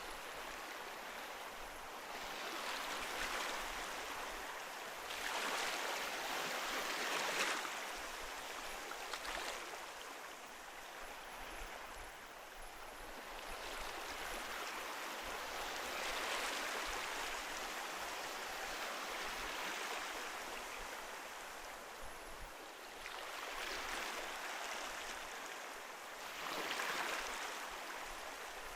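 Ocean waves washing ashore: a continuous rush of surf that swells and eases several times as each wave breaks and runs up.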